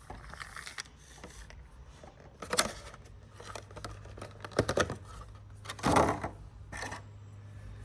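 Unboxing handling noises: a series of separate clicks, taps and rustles of packaging and a small plastic figure, the loudest about six seconds in, over a faint low hum.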